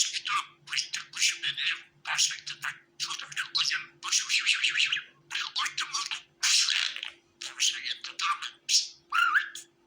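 Budgerigar warbling and chattering in quick, scratchy bursts about every half second, with a faint steady hum underneath.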